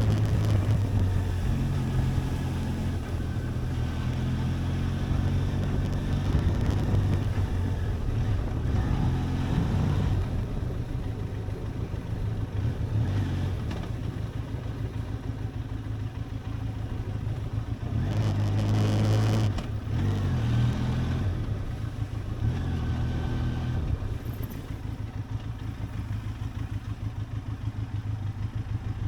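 Benelli TRK 502X motorcycle's parallel-twin engine running as the bike is ridden, its note rising and falling, with a louder swell of revs about two-thirds of the way through before it settles lower.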